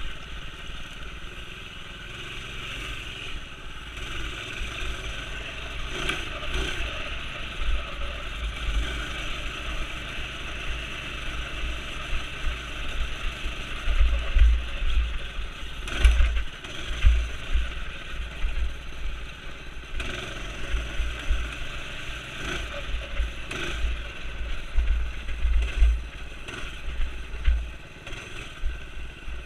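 Minibike's small single-cylinder Predator engine running and revving under load through mud, with irregular low buffeting on the microphone. A few sharp knocks come through, about six seconds in, midway and near twenty-four seconds.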